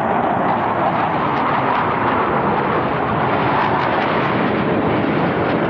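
Airplane passing over at an air show with a loud, steady roar that swells just as it begins and grows a little again near the end.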